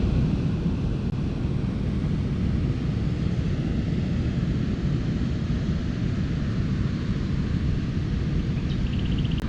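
Steady low rumble of wind on the microphone and ocean surf.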